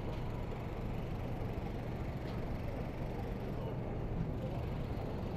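Busy city street ambience: a steady rumble of traffic with faint distant voices.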